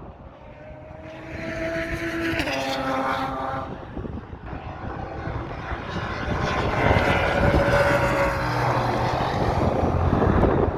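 Race car engines passing at speed: one goes by about two seconds in, its note dropping in pitch as it passes, then another engine grows louder through the second half. Wind buffets the microphone underneath.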